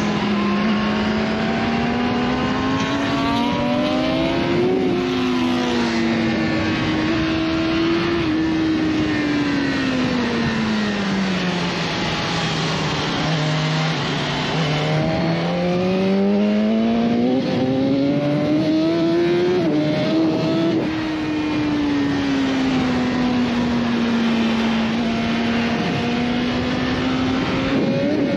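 BMW S1000RR's inline-four engine under way, its pitch climbing and falling smoothly as the bike speeds up and slows, lowest about halfway through, with a steady rush of wind noise underneath.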